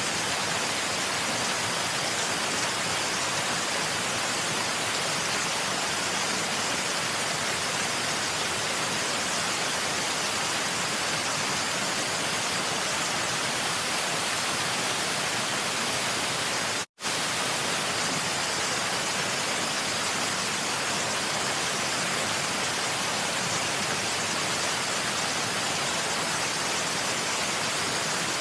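Steady, even rushing of waterfall noise. The sound drops out to silence for an instant about two-thirds of the way through, then resumes at the same level.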